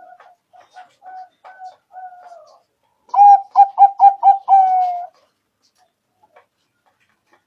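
Zebra dove (perkutut) cooing: soft notes at first, then about three seconds in a loud run of quick notes that ends in one long, slightly falling note.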